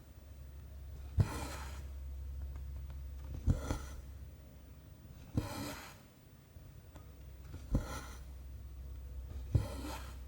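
Cross-stitch needle popping through 14-count canvas, each pop followed by a short swish of cotton thread drawn through the fabric. Five stitches, about two seconds apart.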